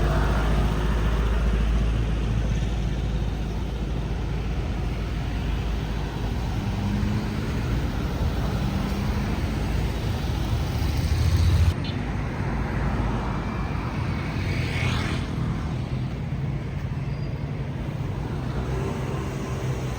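Road traffic: cars and other vehicles passing steadily on a busy road, with a deep rumble that swells and then cuts off abruptly about twelve seconds in.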